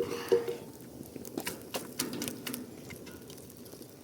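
Campfire of branches and twigs crackling, with irregular sharp snaps as the freshly added wood catches.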